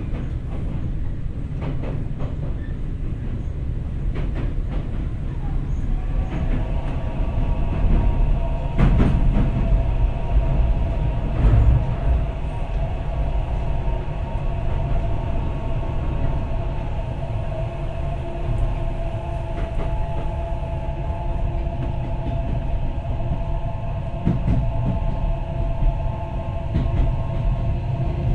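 Tokyo Metro 03 series subway car running, heard from inside: a steady low rumble with occasional clicks of the wheels over rail joints. About six seconds in, a steady electric whine from the VVVF inverter and traction motors joins it and holds.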